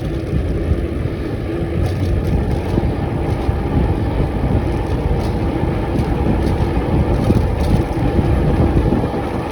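Wind buffeting the microphone, mixed with road rumble, as the bike rolls downhill at speed: a loud, steady rush with no engine note.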